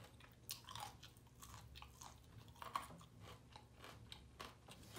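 A person chewing crunchy fried chicken close to the microphone: soft, irregular crunches and mouth clicks.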